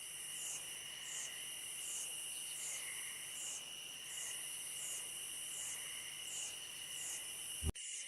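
Insects chirring in a dense, steady chorus: one high, unbroken trill with a pulsing call over it that repeats about every 0.7 seconds. A sharp click cuts in near the end.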